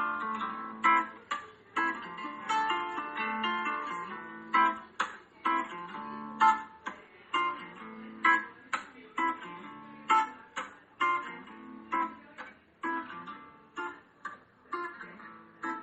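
Acoustic guitar playing an instrumental passage with no singing: chords and plucked notes, fuller in the first few seconds, then sparser single strokes about every half second to a second.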